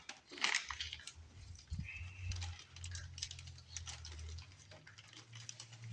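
Light, irregular clicking and rustling as a mini bike's control cables are handled and tied up out of the way, over a low steady hum.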